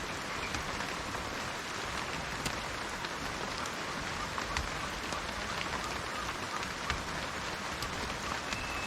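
Steady rain falling, with individual drops ticking sharply here and there over the even hiss of the downpour.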